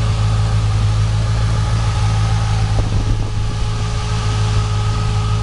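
Chevrolet 409 V8 engine idling steadily, a constant low engine note with no revving.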